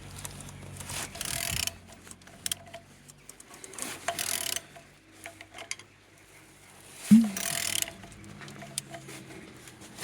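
Used car engine being turned over by hand to show that it rotates freely and is not seized: mechanical clicking, with three rushes of noise about three seconds apart.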